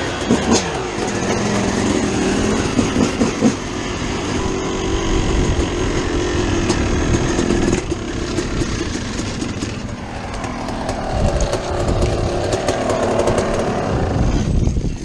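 Dirt bike engines running and revving as the bikes ride off, the pitch climbing for a few seconds before the sound cuts off suddenly at the end.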